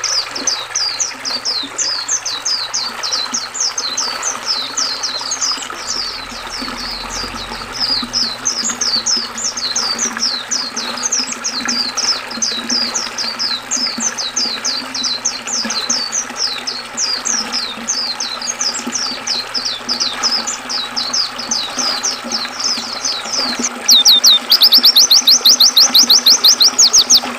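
White-eyes (pleci) chirping in a continuous stream of quick, high, falling notes over the steady rush of river water. About three seconds before the end a louder, faster trill of notes sets in.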